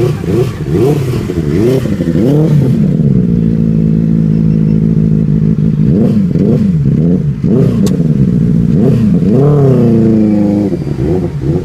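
Benelli 600i inline-four motorcycle engine with a modified Ixil exhaust being revved: repeated quick throttle blips, with a high rev held for about three seconds starting about three seconds in, and another held rev near the end that drops off suddenly.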